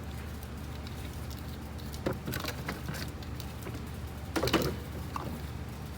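Plastic clicks and rustles from handling new spark plug wires, with a louder cluster about four and a half seconds in, over a steady low hum.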